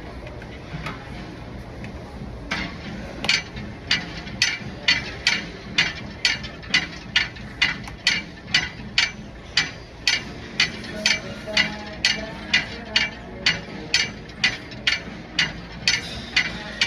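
Gym exercise machine clicking in a steady rhythm, about two sharp clicks a second, starting a couple of seconds in, over a low steady hum.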